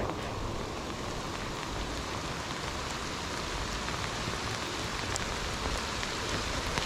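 Steady rain falling hard, an even hiss of drops.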